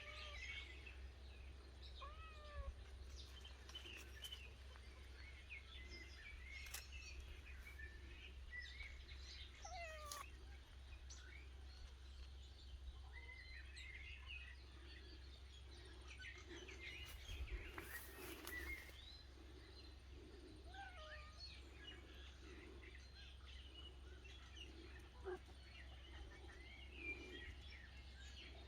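Faint, quiet orchard ambience: scattered small bird chirps and a few soft cat meows.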